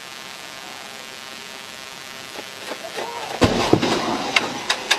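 Steady rush of highway traffic, then a heavy collision about three and a half seconds in: one loud impact followed by several sharp bangs and clatter, as a car slams into the back of a stopped police patrol car.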